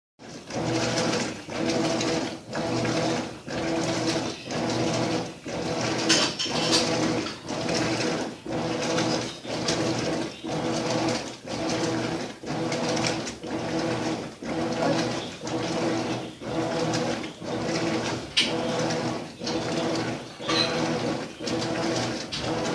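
Maytag washing machine agitating a load: its motor hum swells and dips in a steady rhythm of a little more than one stroke a second, with a few sharp clicks.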